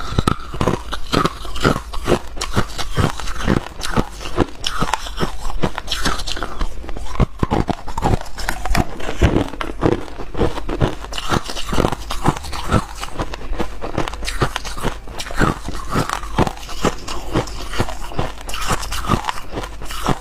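A person biting and chewing ice close up: a fast, irregular run of crisp crunches and cracks throughout.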